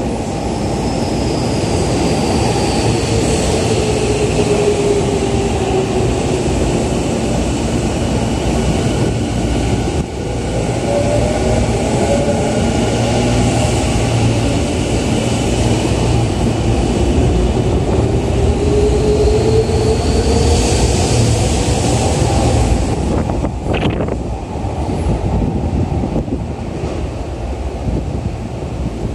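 Electric commuter trains at a station platform with steady wheel-on-rail rumble. A whine falls in pitch in the first few seconds. Then a Yokohama Minatomirai Railway Y500 series train pulls out, its motor inverter whine rising in pitch as it accelerates, and a sharp click sounds near the end.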